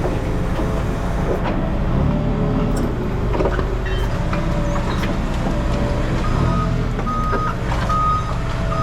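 Heavy equipment engine running steadily, with a back-up alarm starting about six seconds in and giving several evenly spaced beeps as the machine reverses. Scattered short metal knocks over the engine.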